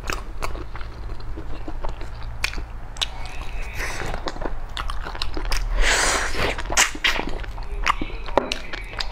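Close-miked chewing of sticky glazed braised fat pork: wet mouth clicks and lip smacks throughout, with a longer, noisier stretch about six seconds in. A steady low hum runs underneath.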